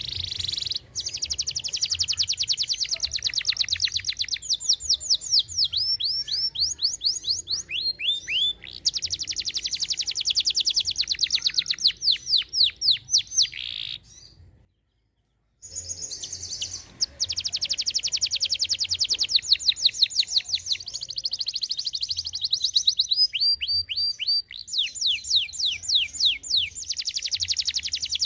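Domestic canary singing a long, vigorous song of very fast trills and rolling rising notes. There is a break of about a second of complete silence about halfway through.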